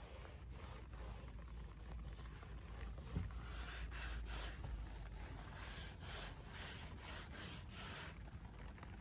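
Footsteps scuffing on a wet path, about two steps a second, over a low steady rumble.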